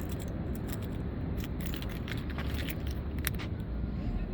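Scattered light clicks and jingling, thickest in the middle, over a steady low rumble.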